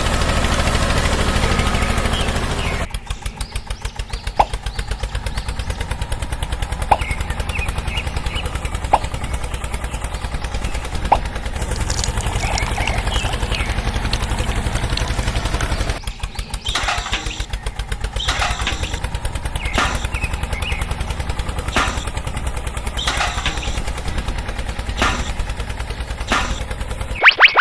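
Small engine running with a rapid, even putter. A sharp click sounds about every two seconds a few seconds in.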